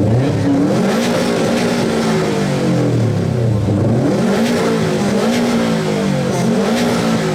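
2019 Subaru WRX STI's turbocharged 2.5-litre flat-four boxer engine revved hard through its exhaust, the pitch climbing and dropping back several times, for a decibel-meter exhaust loudness test.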